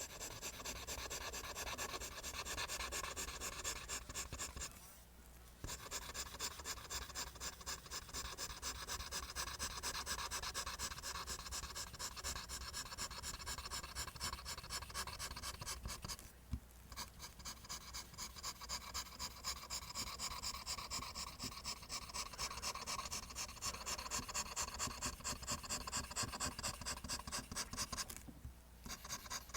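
Pencil drawing lines on paper in quick, rhythmic strokes, the graphite scratching with each pass. The stroking stops briefly three times, about five seconds in, midway and near the end.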